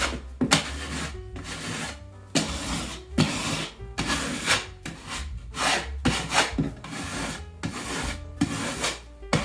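Putty knife scraping across dried patching compound on a drywall patch, taking down the high spots in repeated short strokes, about one or two a second.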